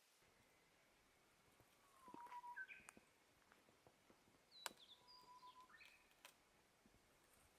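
Faint songbird song: two phrases, each a held whistled note followed by a few quick higher notes. A few light clicks come in between.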